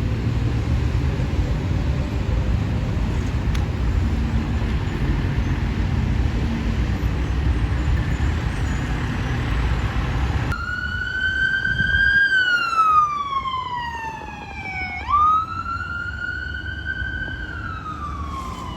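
Steady road and engine rumble, then after about ten seconds an abrupt change to an emergency vehicle's electronic siren on a slow wail, falling, rising quickly and falling again, with two brief louder blasts partway through.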